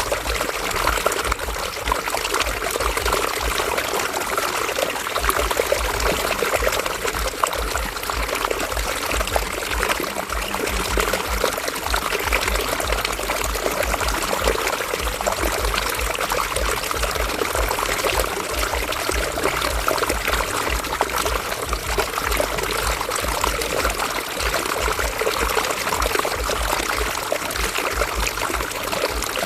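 River water running and splashing over rocks, a steady trickling and gurgling rush.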